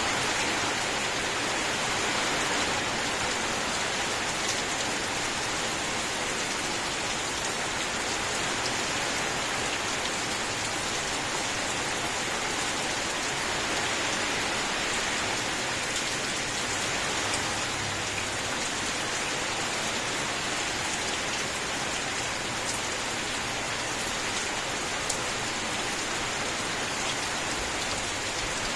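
Steady, continuous rain: an even hiss of falling rain with a few sharper single drop ticks scattered through it.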